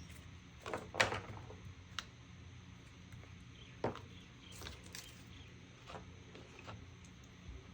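Scattered light clicks and knocks of art supplies being picked up and set down on a work table, the loudest about a second in and again near four seconds, over a faint steady low hum.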